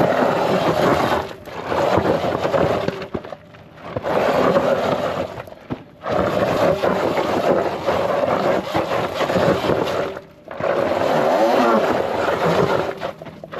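Rough scraping and crunching over dirt ground, in bouts of a few seconds with short breaks between.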